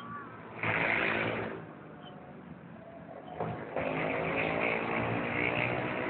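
Road traffic going past: one vehicle swells by about half a second in, then another passes with an audible engine note for a couple of seconds from the middle.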